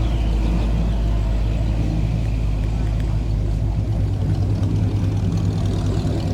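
A car engine idling nearby, a steady low rumble; the deepest part of the rumble drops away about four seconds in.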